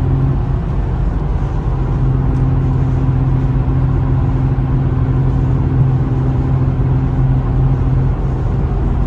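Steady in-cabin drone of a 2007 Infiniti G35 Coupe's 3.5-litre V6 through its Motordyne exhaust, cruising at a steady speed with tyre and road noise underneath. The pitch holds level, easing off briefly about half a second in.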